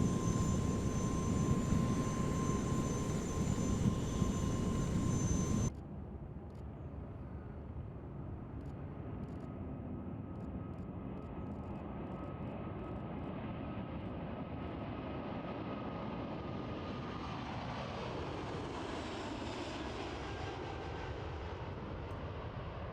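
Jet airliner engines. For about six seconds there is a loud rush with a steady high whine, then a sudden cut to a quieter, steady jet noise with a few faint clicks. Near the end the tone sweeps down and back up as an aircraft passes.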